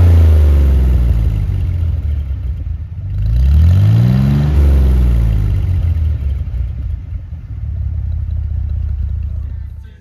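Jeep CJ5's Dauntless V6 running through 2-inch Flowmaster Super HP-2 mufflers and rear-quarter tailpipes. It comes down off a rev as the clip opens, is revved once more about three seconds in and falls back, then runs lower and steadier.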